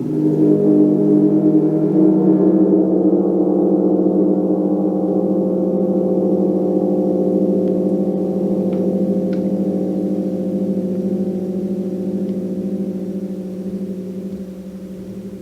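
Gong ringing: it swells up right at the start, then holds a dense cluster of overlapping tones that slowly fade. A couple of faint ticks sound about nine seconds in.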